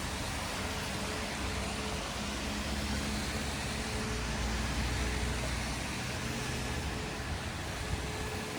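City street traffic: a motor vehicle's engine running close by, with a low rumble and a steady hum that swell a little in the middle, over an even hiss of street noise.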